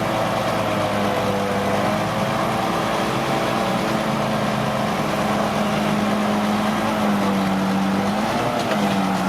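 Diesel engine of a Komatsu D41P crawler bulldozer running steadily under load while it works soil. Its pitch dips a little and comes back up near the end.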